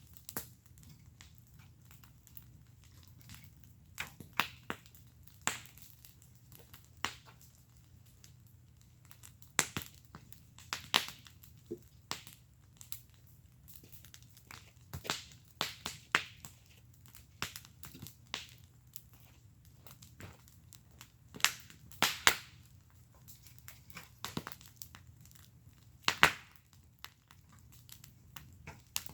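Wood fire burning in a fire pit: irregular sharp crackles and pops from the burning wood, scattered through with a few louder snaps, over a low steady background.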